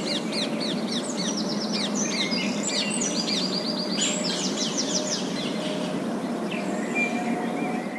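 A group of parakeets chirping and chattering in quick runs of short, repeated notes, over a steady low background noise.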